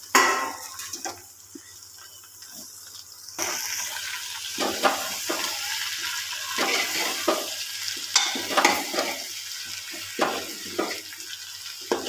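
Cut raw jackfruit sizzling as it is stirred with a metal ladle in an aluminium pressure cooker, the ladle scraping and knocking against the pot. The sizzle grows louder from about three seconds in.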